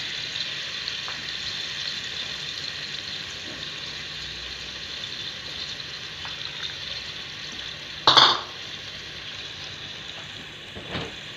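Chicken gizzards and livers sizzling in oil in a pan, with soy sauce just poured in: a steady frying hiss. A single loud short knock about eight seconds in, and a fainter one near the end.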